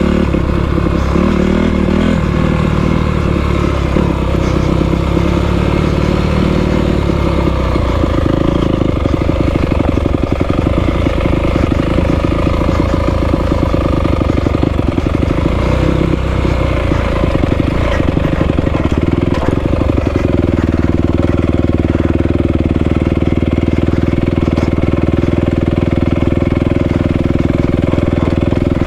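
Honda CRF250R dirt bike's single-cylinder four-stroke engine running as the bike is ridden. Its pitch rises and falls with the throttle through the first part, then holds fairly steady in roughly the last third.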